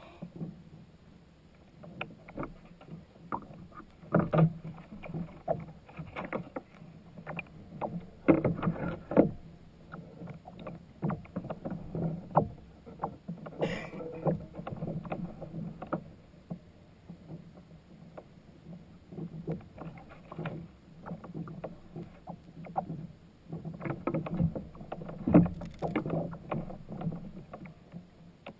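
Water sloshing and splashing against a kayak's hull, with irregular small knocks.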